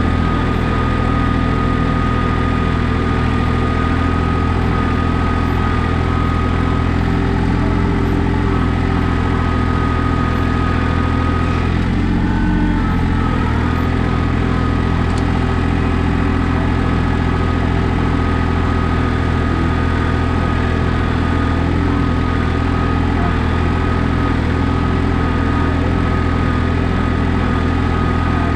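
John Deere 855 compact tractor's diesel engine running steadily, with a brief change in the sound about twelve seconds in.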